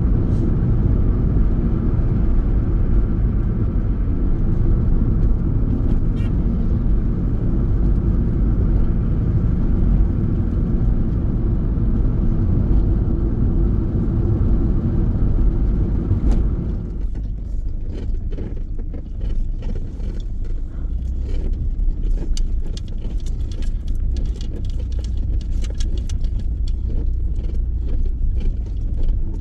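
Car being driven: steady engine and road rumble. About two-thirds through it drops lower and quieter, and scattered rattling clicks come in.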